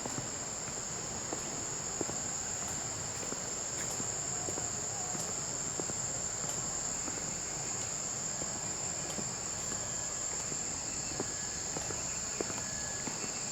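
Steady high-pitched insect chorus, a continuous shrill buzz that holds the same pitch throughout, with a few scattered faint clicks over it.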